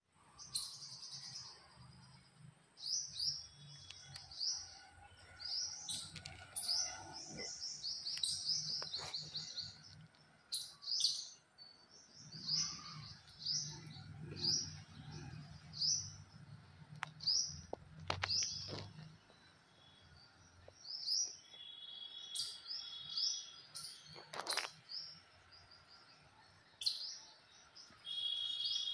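Small birds chirping over and over in short, quick chirps, with a low rumble in the middle and a few sharp clicks.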